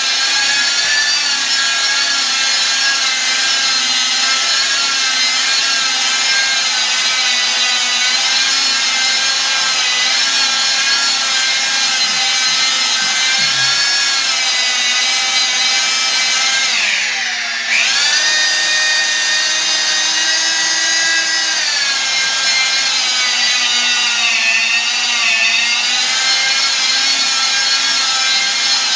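Handheld electric polisher running with its pad pressed on marble, a steady motor whine over a grinding rub. About seventeen seconds in, the motor's pitch sinks and then it picks up speed again.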